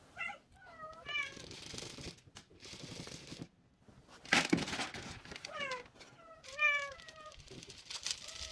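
Domestic cat meowing repeatedly in short, pitch-bending calls, a cluster near the start and another about two thirds through, demanding food. A sharp knock sounds about four seconds in.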